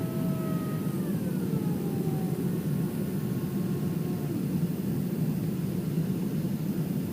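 Boeing 767 cabin noise during the landing approach: a steady, loud jet engine and airflow roar, with a thin engine whine that glides down in pitch about a second in and fades out.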